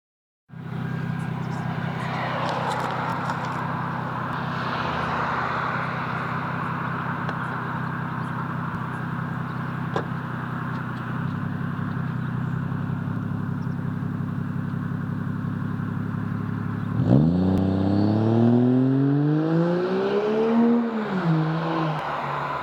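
Toyota Verossa JZX110's 1JZ-GTE turbocharged straight-six idling steadily through a Cannonball double muffler. Near the end it is revved, the pitch rising and falling back twice.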